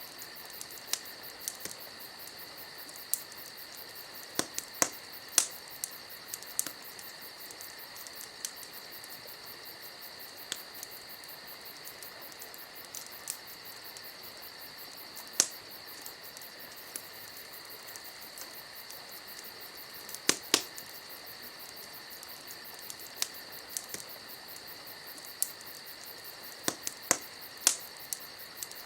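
Campfire crackling: irregular sharp pops and snaps, a few much louder than the rest, over a steady high chirring.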